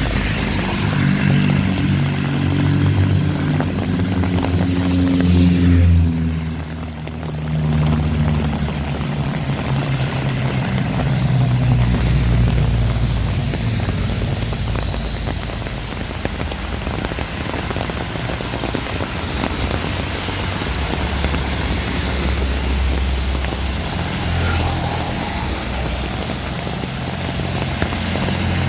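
Heavy rain falling, with a strong low rumble underneath that swells and fades and drops away briefly about seven seconds in.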